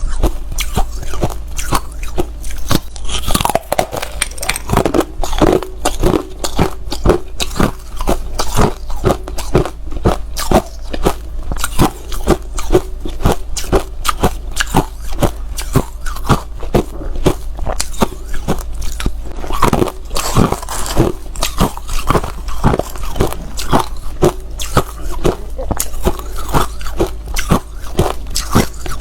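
Hard ice being bitten and chewed close to the microphone, with rapid sharp crunches that keep going, several a second.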